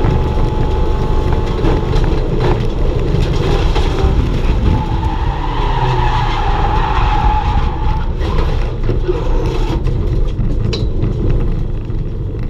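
Race car running hard on track, with tyres squealing for about three seconds near the middle.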